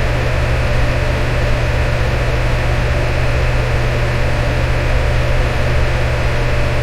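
Electric fan running steadily: an even whooshing hiss over a deep, constant hum.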